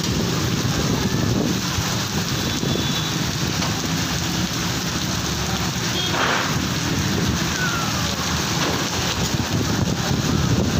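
Heavy rain pouring onto a wet street, a steady dense hiss with a low rumble beneath it.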